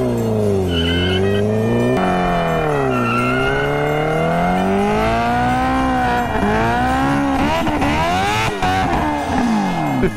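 Vehicle engine revved hard over and over, its pitch rising and falling, with tyre squeal building in the second half, as in a burnout.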